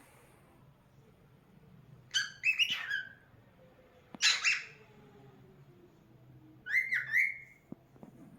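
Cockatiel calling in three short bursts of whistled chirps, about two seconds apart.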